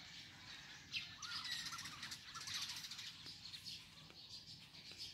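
Birds chirping, faint, with a series of short calls in the first half, over a steady high hiss.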